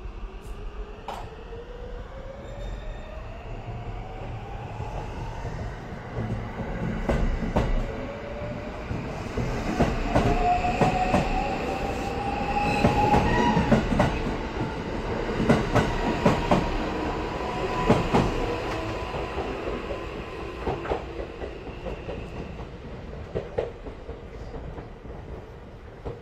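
A JR West 521-series electric train pulls out of the station and accelerates past. Its motor whine rises in pitch as it gathers speed, and the wheels clack over the rail joints. The sound is loudest as the cars go by in the middle and fades as the train draws away.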